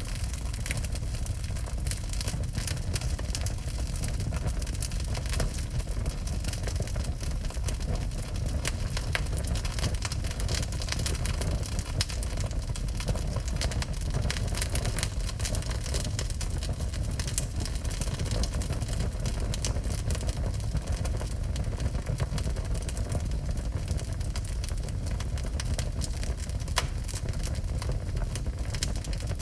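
Wood fire burning in a fireplace: many small crackles and pops over a steady low rumble.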